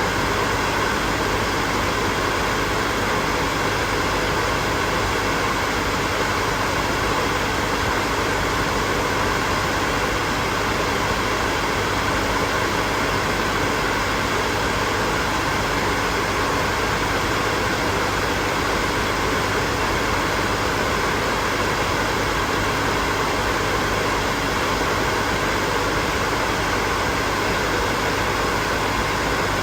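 Hair dryer blowing steadily: an even rush of air with a faint motor hum underneath, unchanging throughout.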